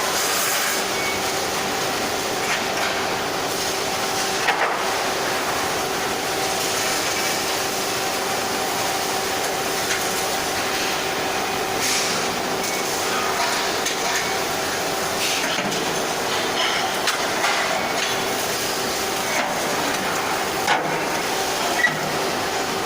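Steady workshop machinery noise: a dense hiss with a constant hum and a few scattered metallic knocks.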